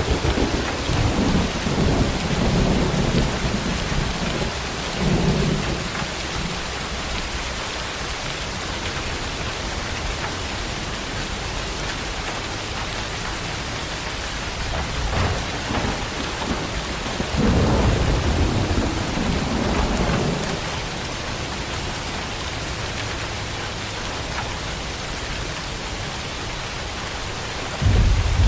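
Steady heavy tropical rain with rolling thunder. Low rumbles swell over the downpour near the start, briefly a few seconds later, in a longer roll about two thirds of the way through, and again at the end.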